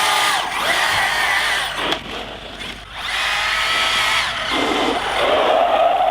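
Electric motors of large RC monster trucks whining as they rev and accelerate, the high-pitched whine rising and falling in pitch with a short lull in the middle.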